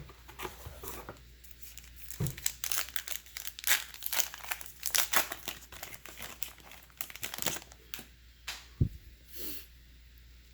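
Foil wrapper of a baseball card pack crinkling and tearing as it is opened, in a dense run of crackles, with a single soft thump near the end.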